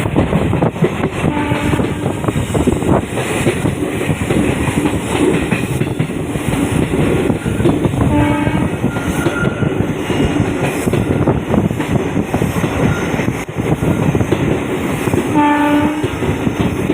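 Train running at full speed over a river bridge: a loud, steady rumble of wheels on rails, with three short horn blasts about seven seconds apart.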